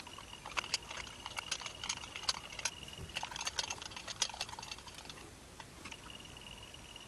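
Small metal parts clicking and tapping in quick irregular succession, over a faint steady high whine that drops out about three seconds in and returns near the end.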